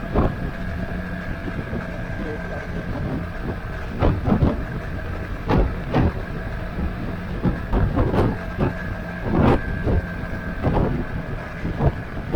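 Motorcycle running steadily with road and wind noise, broken by irregular sharp knocks on the microphone from about four seconds in.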